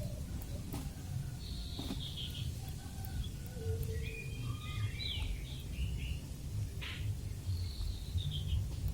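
Chickens calling: scattered short, high chirps and falling peeps, with a few lower short notes, over a steady low rumble.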